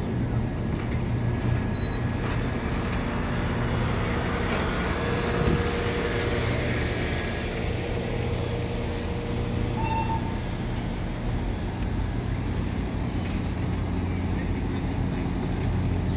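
Passenger train cars rolling slowly past at close range: a steady rumble of wheels on the rails. A short squeak comes about ten seconds in.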